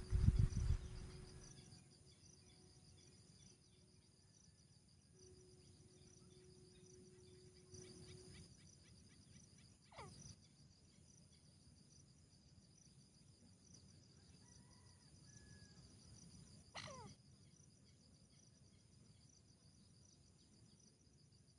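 Faint, steady high-pitched chirring of crickets or other insects, with a low thump and rumble in the first second and two short, quickly falling sounds about ten and seventeen seconds in.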